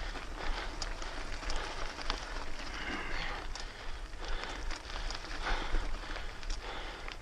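A 2006 Specialized Stumpjumper FSR full-suspension mountain bike being ridden on a dirt trail: steady tyre noise over the ground with frequent small clicks and rattles from the bike, over a low wind rumble on the microphone.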